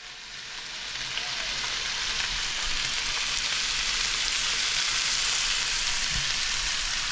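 Oiled fish frying in a pan on the stove, a steady sizzle that swells over the first couple of seconds and then holds even.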